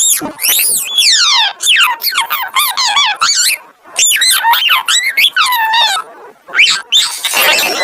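Parrot squawking and whistling in rapid, sweeping high-pitched calls, in several runs with short breaks between them.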